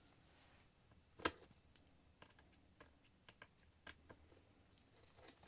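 Faint, scattered small clicks and taps of tiny screws and a precision screwdriver being handled and set into an iPad's corners, with one sharper click about a second in.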